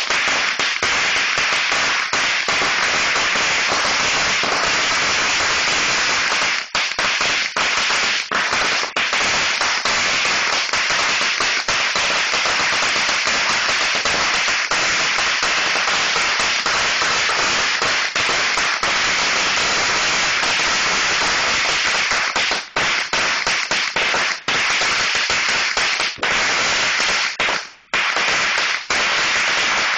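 A 4,000-count string of Black Cat firecrackers going off in a dense, continuous rapid crackle, with a few brief lulls, the longest near the end.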